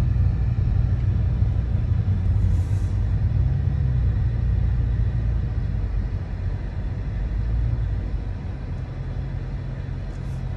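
Dodge Charger 392's 6.4-litre HEMI V8 running while the car rolls slowly, heard from inside the cabin as a steady low rumble that grows a little quieter in the second half.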